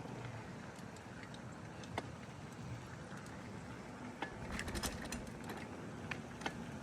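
Bicycle riding along: a steady hiss of tyre and road noise with scattered light clicks and rattles from the bike, a quick cluster of them about four and a half seconds in.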